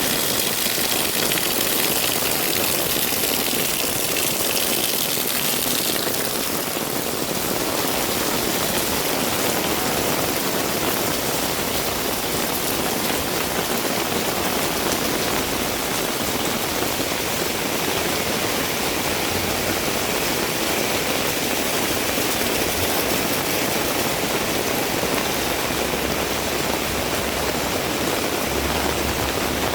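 Heavy rain falling steadily, a dense hiss with a brighter, harsher top for the first six seconds or so. A faint low hum comes in near the end.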